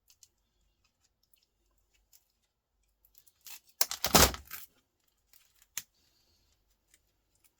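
Small electronic scrap being handled and broken apart by hand: a few light clicks, then a loud crackling noise about three and a half seconds in that lasts about a second, followed by one sharp click.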